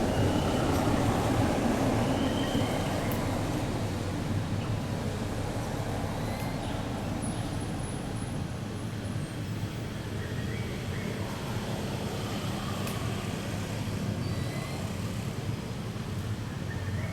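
Steady low rumble of vehicle traffic, with a few faint, short high chirps scattered over it.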